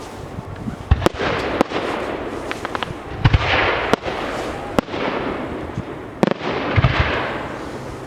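Fireworks display: shells bursting with sharp bangs every second or so, several followed by a swelling hiss of burning effects that fades away.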